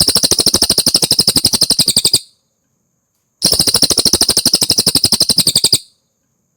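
Cililin songbird singing two rapid, even trills of a little over two seconds each, about a second apart, each made of quick high chirps at some thirteen a second.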